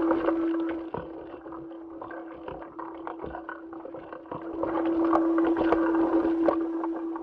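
Soundtrack of spacewalk footage: a steady mid-pitched hum under swishing, rustling movement noise with small clicks, like something moving through water. It is louder at the start, drops back, and swells again about four and a half seconds in.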